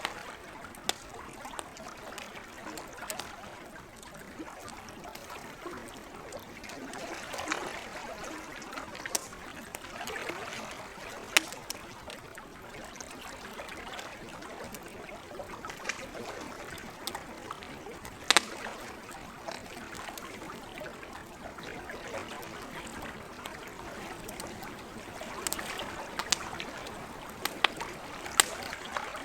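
Campfire crackling, with sharp pops scattered through it and a cluster of them near the end, over the steady, gentle lapping of lake water.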